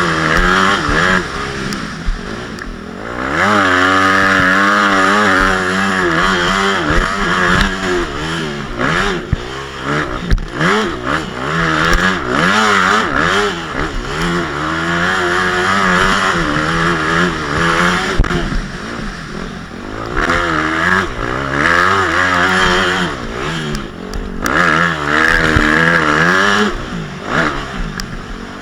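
Motocross dirt bike engine revving hard and easing off again and again as it is ridden, its pitch rising and falling every second or two. It backs off more deeply a few times.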